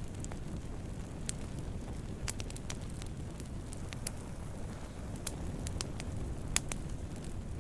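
Wood fire burning with a steady low rumble of flames and irregular sharp crackles and pops, the loudest pop about six and a half seconds in.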